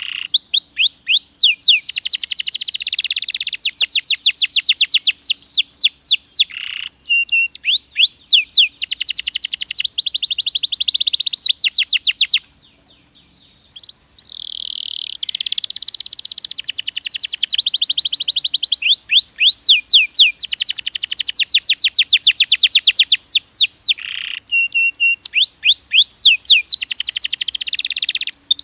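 Domestic canary singing long, fast trills of rapidly repeated notes, strung together with short gaps and one pause of about a second and a half near the middle.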